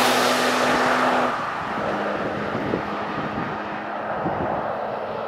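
Peugeot 406 Coupé's V6 engine running hard as the car approaches. Just over a second in, the engine note drops in pitch and gets quieter, as if the throttle is eased, then carries on steadily at lower load.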